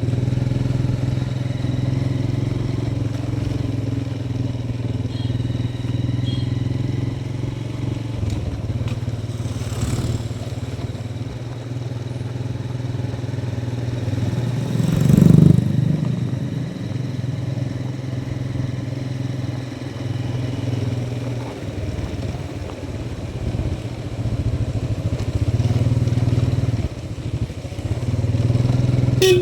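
Motorcycle engine running steadily under way, with road and wind noise. About halfway through there is a brief louder rush, and the engine eases off a few times near the end.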